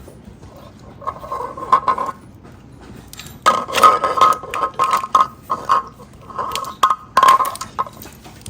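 Hand-tool work on battery wiring: irregular clicks and scraping with a squeaky tone, in a short spell about a second in and a longer one from about three and a half seconds to near the end.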